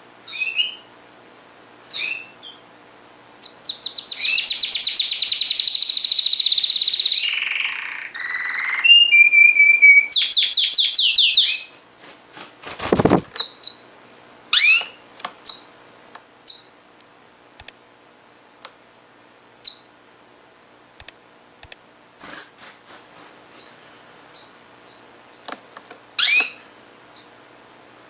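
Domestic canary singing: about eight seconds of loud, fast rolling trills, then a string of short chirps and call notes.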